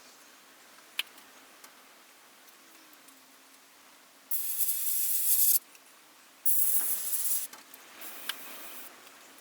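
Airbrush spraying paint in short spurts: a loud hiss of air and paint for about a second, again a second later, then a softer spurt near the end. A single click comes about a second in.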